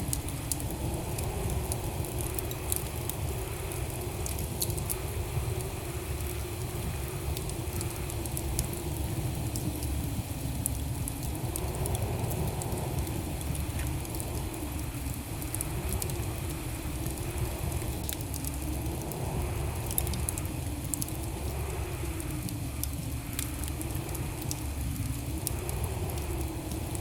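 Wood fire burning in a fireplace: a steady low rumble of the flames with many small sharp crackles and pops scattered throughout.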